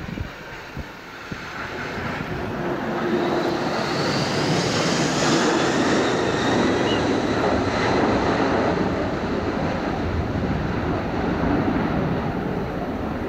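McDonnell Douglas MD-11 trijet's engines at high thrust as it passes on a go-around, growing louder over the first few seconds to a loud steady jet noise, with a high whine rising in pitch early on.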